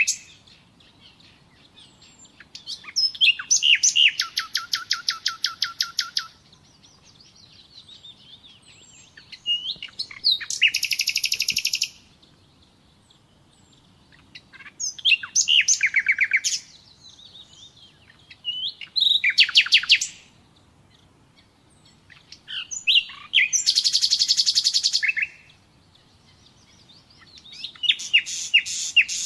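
Nightingale singing: about six separate song phrases of one to three seconds each, with pauses between them, mostly rapid runs of repeated notes, some begun with a few quick whistled notes.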